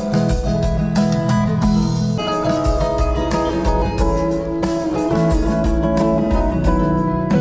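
Live band playing an instrumental passage led by guitar, with a steady beat.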